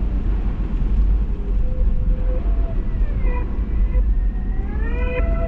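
Steady low rumble of a car driving, heard from inside the car. From about halfway in, faint squeaky pitched tones glide in pitch, rising near the end.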